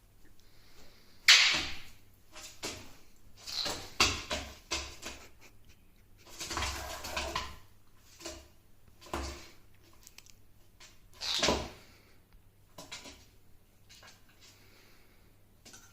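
Eclectus parrot playing with objects on a tabletop: irregular knocks and clicks, with a few short bursts of scraping and rustling.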